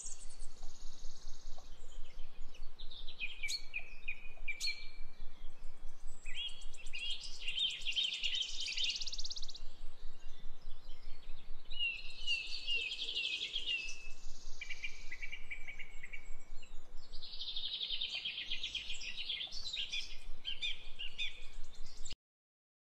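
Birds chirping and singing in repeated bouts of quick, high trills, cutting off suddenly near the end.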